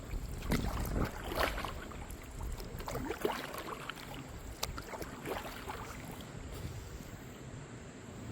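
Kayak paddle strokes and water splashing and lapping against the hull, with a few irregular splashes over the first six seconds, then only a quieter wash of water.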